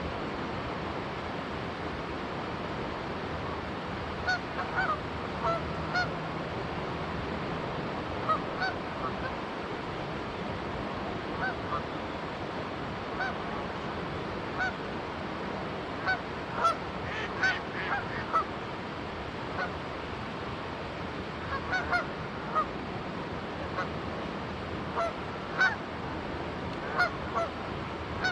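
Canada geese honking in short, repeated calls, clustered in bursts, over the steady rushing of a flowing river.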